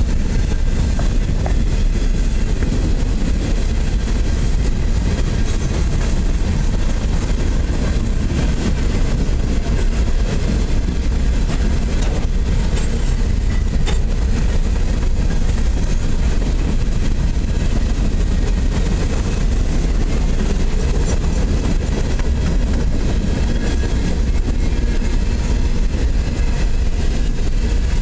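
Freight train hopper cars rolling past: a steady rumble of steel wheels on the rails, even and unbroken.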